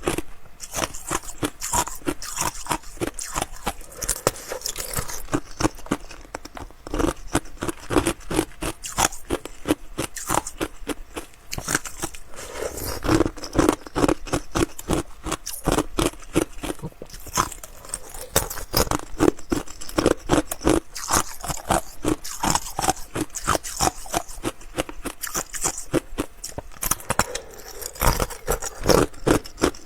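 Close-miked chewing of ice: rapid, continuous crisp crunches, several per second.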